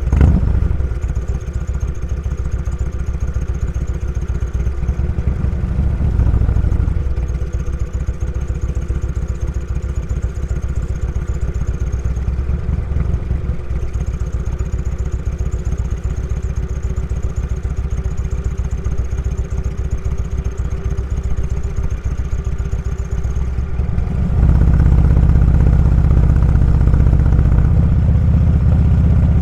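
Motorcycle engine running with a steady low pulsing beat; about 24 seconds in it gets louder and fuller.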